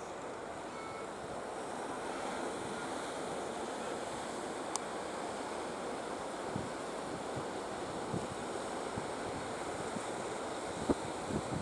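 Steady rush of sea surf with wind buffeting the microphone, and a few short thumps near the end.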